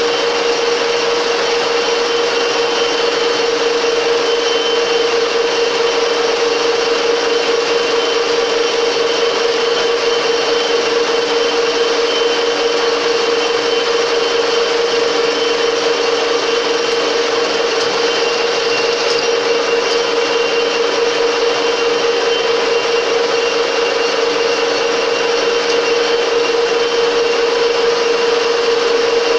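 Metal lathe running steadily with a constant whine, taking a light turning cut of about half a millimetre per pass on a round workpiece.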